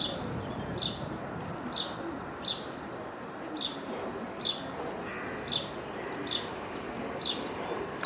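A small bird repeats a short, high chirp a little more than once a second, over a steady low rumble from an electric multiple-unit train approaching the platform.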